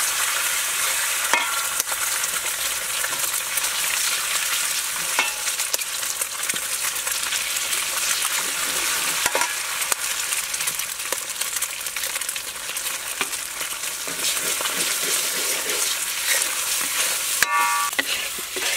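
Eggs and garlic sizzling in a hot wok, stirred with a metal ladle that scrapes and knocks against the pan now and then.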